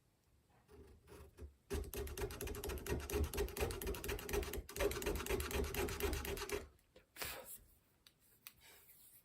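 A hand tool scraping hard against a workpiece in a fast, continuous run of strokes. It starts about two seconds in and stops abruptly about five seconds later, followed by a few light knocks.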